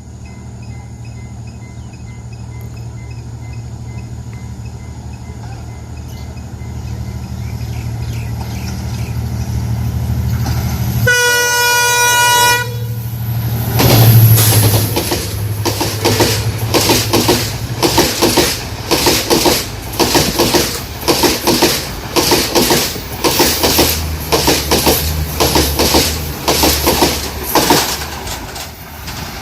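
Yal Devi express train approaching with a low diesel engine drone that grows steadily louder, then sounding its horn once for about a second and a half. The locomotive passes at the loudest point, and the carriages follow with a regular clickety-clack of wheels over the rail joints.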